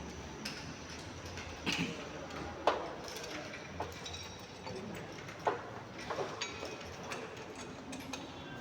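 A few scattered light metallic clicks and knocks, spaced about a second apart, as a wrench works the wheel nuts loose on a car wheel.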